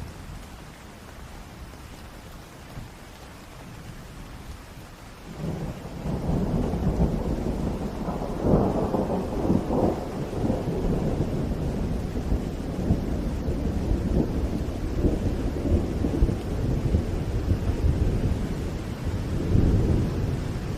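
Steady rain, then about five seconds in a long roll of thunder starts, rumbling on and swelling to its loudest a few seconds later.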